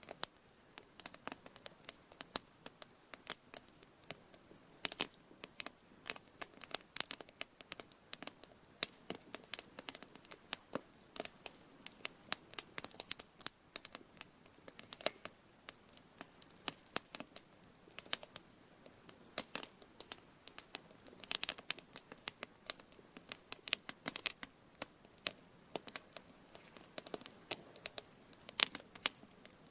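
Fire crackling: irregular sharp pops and snaps, sometimes several close together, over a quiet background.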